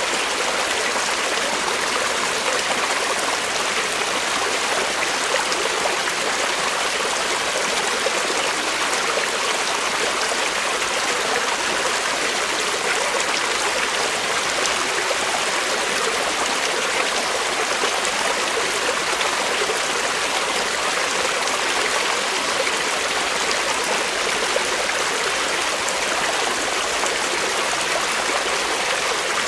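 Creek water flowing steadily over rocks, an even rushing and trickling.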